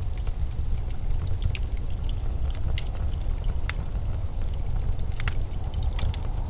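Low, steady rumble of blizzard wind, with scattered sharp little ticks and crackles over it.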